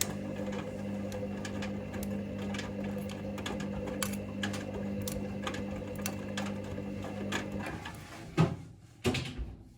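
Hoover Link washing machine on its final rinse: the drum motor hums steadily as the drum tumbles, with a run of clicks and knocks from the load. The motor stops near the end, followed by two heavy thuds as the drum comes to rest before reversing.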